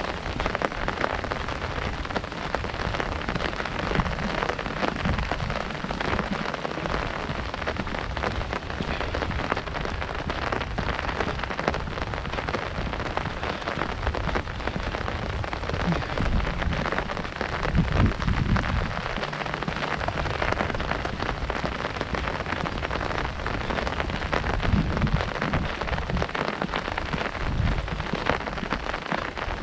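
Heavy rain drumming on an umbrella canopy: a dense, steady patter of drops close overhead. A few low rumbles come and go, the strongest about two-thirds of the way through.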